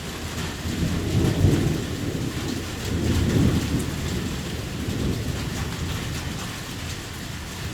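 Heavy rain falling steadily with thunder rumbling low, swelling twice in the first few seconds, then fading.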